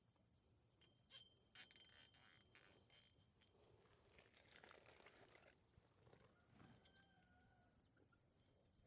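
Near silence, with a few faint clicks and rattles from about a second in, then a faint rustle.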